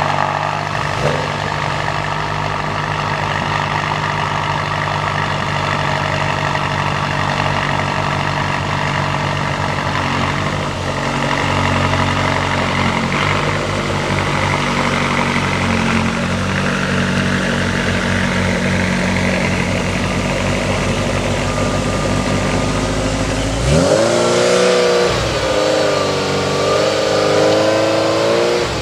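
Exotic sports car engine idling steadily just after starting. About 24 seconds in it revs up sharply and holds at higher revs with a wavering pitch.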